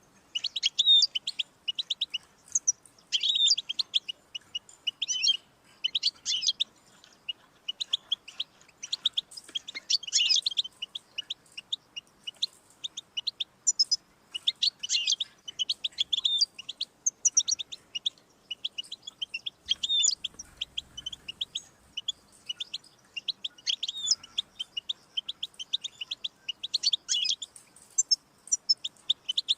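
European goldfinch singing: quick twittering phrases of chirps and trills, one after another with short pauses between them.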